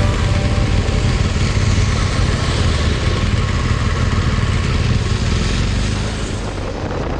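Motorcycle being ridden: the BMW R1200GS's flat-twin engine running under a steady rush of wind noise.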